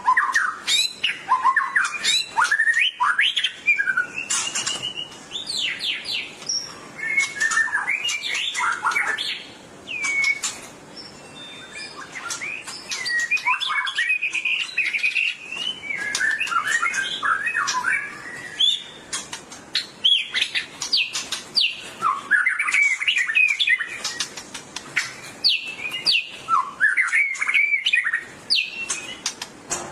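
White-rumped shama (murai batu) singing a fast, varied song of whistled phrases mixed with sharp clicks, with short pauses between bursts: the full song of a bird in fighting form.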